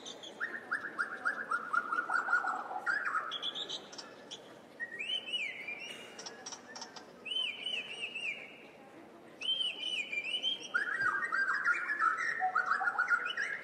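Birds singing: fast trills and strings of short arched chirps, in phrases a second or two long with short pauses between them.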